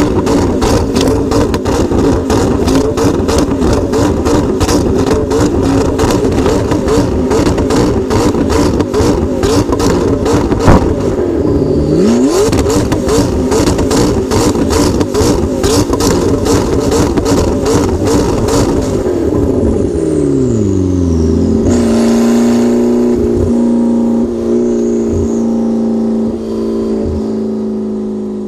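McLaren MP4-12C's twin-turbo V8 through an Fi Exhaust, revving hard with a constant rapid crackle of exhaust pops and one loud bang about eleven seconds in. Near the twenty-second mark the revs fall away and the engine settles to a steady idle.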